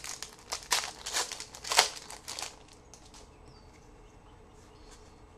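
Trading card pack wrapper crinkling as it is opened and handled by hand, loudest about two seconds in, then dying down to faint handling sounds.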